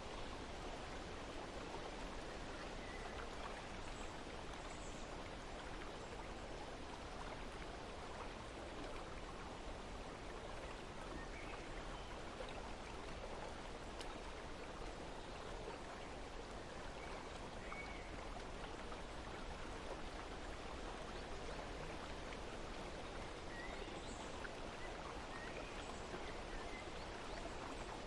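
Steady rush of flowing stream water, with a few faint, short bird chirps now and then.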